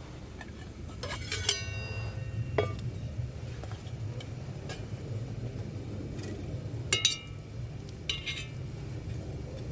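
Metal camp cookware and utensils being handled: a few separate sharp clinks and knocks, some with a short metallic ring, over a steady low hum.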